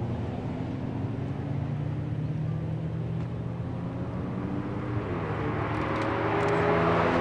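Supercar engines running at low speed, their note rising slowly and growing louder toward the end as a car draws near.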